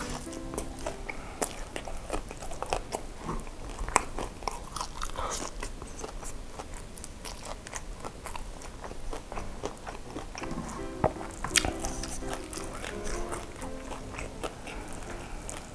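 Close-up mouth sounds of chewing and biting sauced fried chicken and noodles: a dense run of sharp, clicky bites and chews. Soft background music plays underneath, most noticeable near the start and from about ten to fourteen seconds in.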